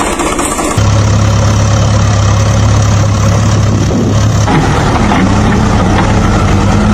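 A vehicle engine running steadily at idle, a deep even hum that cuts in abruptly about three quarters of a second in and thins out about two thirds of the way through.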